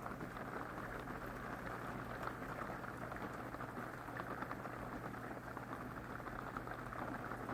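Steady rain drumming on an RV's metal roof, a dense pattering heard from inside, with a faint steady low hum beneath.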